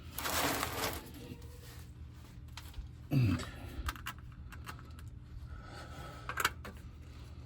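Small metal clicks and a short scrape of a tool prying at the edge of a pickup's rear differential cover, which is still stuck on its old sealant. A brief grunt about three seconds in.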